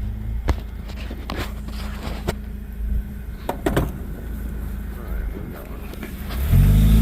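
4x4's engine running low with scattered knocks and rattles, then revving up and getting louder near the end.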